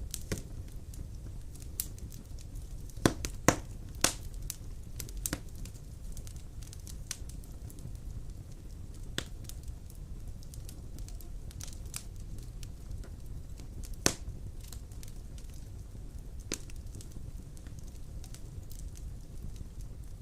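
Wood fire burning in a fireplace: a steady low rumble with scattered sharp crackles and pops, a cluster of louder pops about three to four seconds in and another near the middle.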